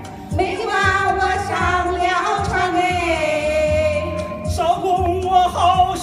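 A singer holding long, ornamented notes of a Chinese folk-song melody over a band accompaniment with a steady low beat.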